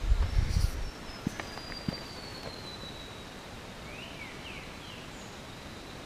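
Faint birdsong: one long, thin whistle sliding slowly down in pitch, then a few short, quick notes about four seconds in. A low rumble and a few clicks on the microphone in the first second.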